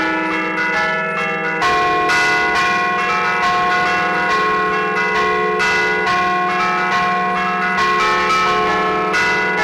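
Church bells played from a keyboard in the Bergamasque 'a martellino' style, hammers striking the fixed bells in quick succession to play a festive allegrezza melody, the struck notes ringing over one another above a sustained low bell tone.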